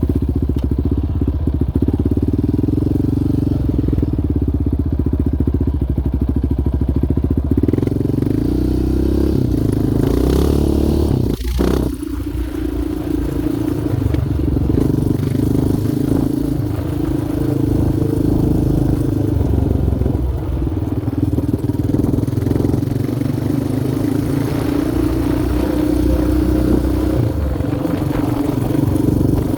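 Yamaha Raptor 700R quad's single-cylinder four-stroke engine running steadily under way, with a brief drop in engine sound about eleven seconds in.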